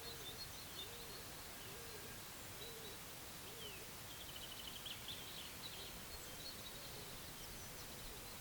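Quiet forest ambience with small songbirds chirping high and thin, including a quick trill about halfway through. Over the first few seconds a low call rises and falls, repeated about every two-thirds of a second.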